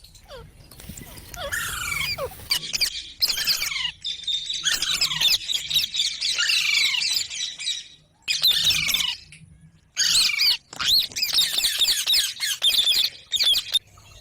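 Parrot squawking and chattering in rapid runs of short, sharp, falling calls, breaking off for about two seconds partway through and then starting up again.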